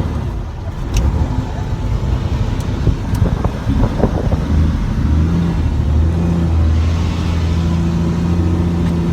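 Helicopter running: a rough rumble with scattered knocks at first, then from about halfway a steady low drone holding a few fixed pitches.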